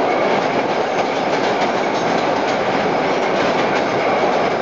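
Vintage 1930s New York City subway train running at speed, giving a steady loud rumble with the wheels clicking over rail joints.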